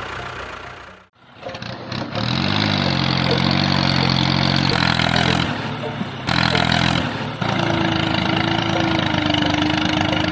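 A motor running steadily in several short segments separated by abrupt cuts, its pitch rising about two seconds in, with a steady higher whine joining in the last few seconds.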